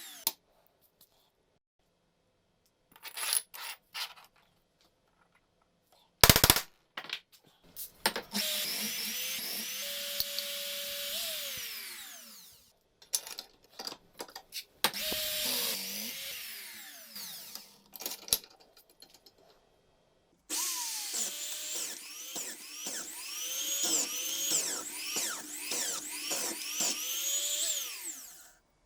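Electric power tool motor running in several short bursts, its whine falling away as it winds down after each. In the last and longest burst the pitch dips and recovers over and over.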